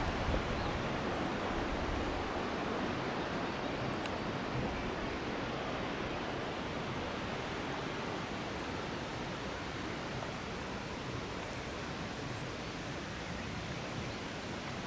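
Steady rush of a waterfall, with faint high chirps every couple of seconds.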